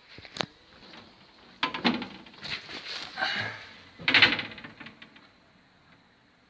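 A sharp click, then clattering and knocking in three bursts, loudest about four seconds in: metal parts being handled on a car body under restoration.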